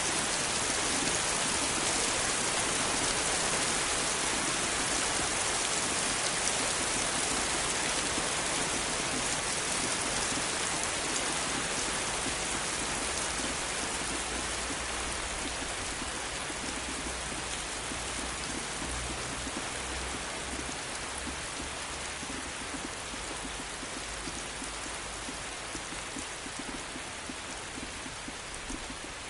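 Steady heavy rain falling, an even hiss of countless drops that slowly gets a little quieter, with a faint low rumble in the middle.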